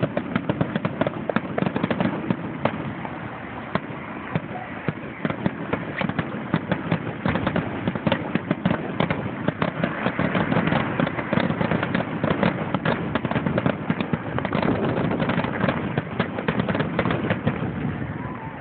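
Fireworks going off in a dense, continuous barrage: many rapid bangs and crackles overlapping, with no let-up.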